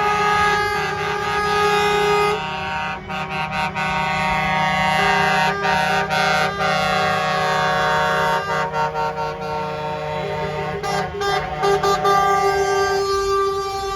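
Truck air horns blowing long, overlapping blasts at several pitches at once, with a few brief breaks.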